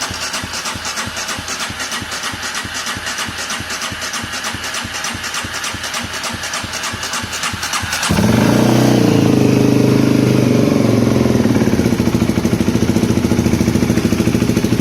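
Polaris Predator 500's single-cylinder four-stroke engine cranking on the starter with a rapid, even chug for about eight seconds, then catching and running steadily and louder, freshly restarted after carburettor work to cure a fuel problem.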